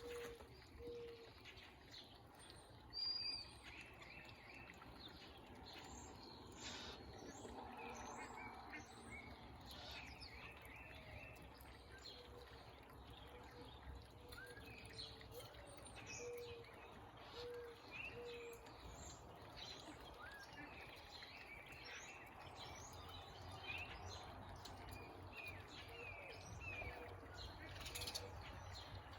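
Several backyard songbirds chirping and calling, with many short high notes and a run of low repeated notes, over a faint steady background noise.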